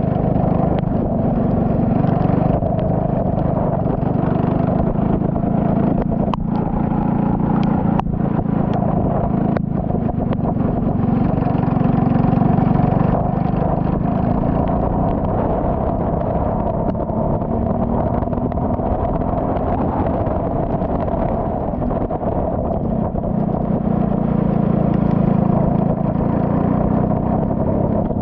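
Turbocharged Saab 9-3 race car's engine running continuously at speed on track, its pitch rising and falling gently with throttle. Three sharp clicks come in the first third.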